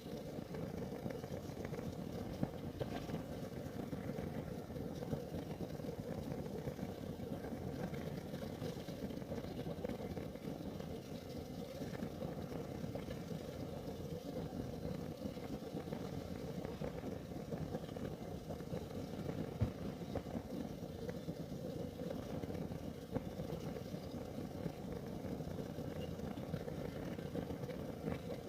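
Kerosene heater burning with a steady, low flame noise, and a few sharp crackles now and then.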